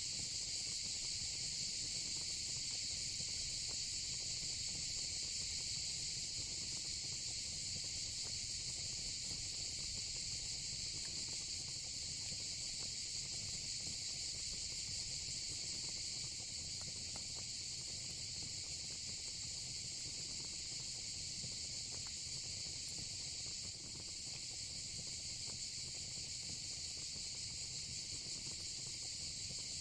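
Steady, high-pitched chorus of crickets, unbroken throughout, over a faint low rumble from the fire pit.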